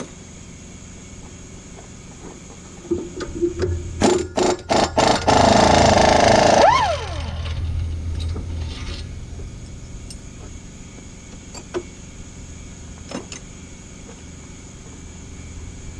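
Power impact wrench hammering in short bursts, then running on for about a second and a half and winding down with a falling whine, taking out a bolt during the engine teardown. Two light metallic clicks follow near the end.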